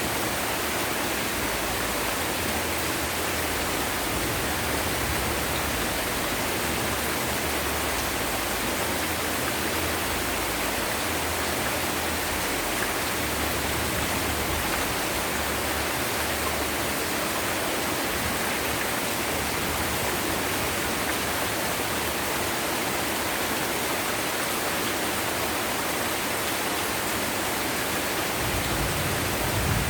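Heavy rain falling steadily, a dense even hiss; a low rumble of thunder begins near the end.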